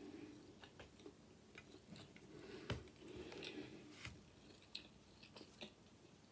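Faint close-miked chewing with the mouth closed: small wet mouth clicks scattered through, with a sharper knock a little over two and a half seconds in and another about four seconds in.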